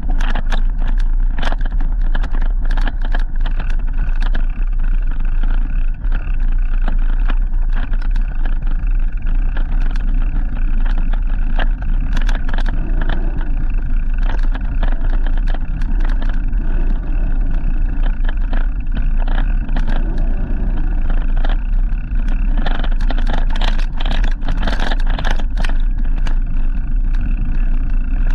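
Steady rumble of wind on the microphone and tyres on the road while riding a bike, with frequent sharp clicks and rattles from bumps.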